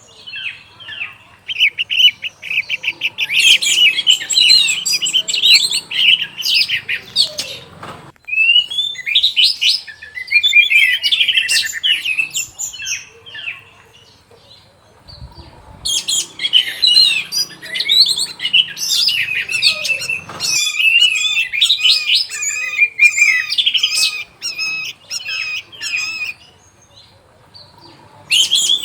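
Orange-headed thrush (anis merah) singing long, fast runs of varied notes, broken by short pauses between phrases.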